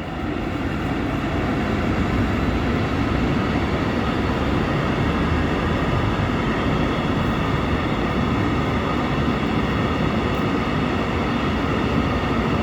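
Freight train passing through a station without stopping: a steady rumble of wagon wheels on the rails that builds over the first couple of seconds and then holds steady.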